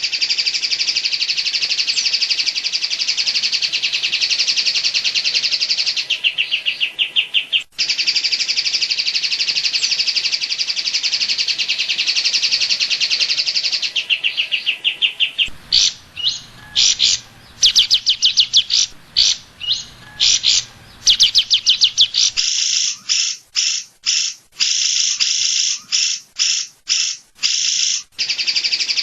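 Cucak ijo (green leafbird) singing a dense run of very rapid, sharp high notes, the 'tembakan' phrase in the style of the cililin. The song runs nearly unbroken for the first half, then breaks into short bursts with brief gaps.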